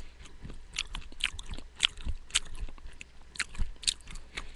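Close-miked chewing of raw sprouted beans, peas and uncooked rice: an irregular run of crisp crunches, a few each second.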